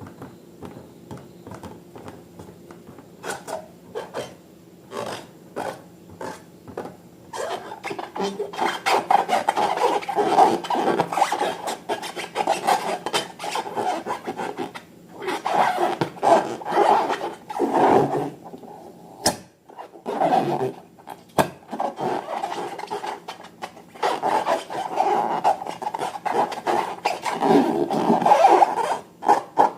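Repeated rubbing and rasping with many small clicks as slime-making materials are worked by hand. It starts sparse and becomes denser and louder after about seven seconds.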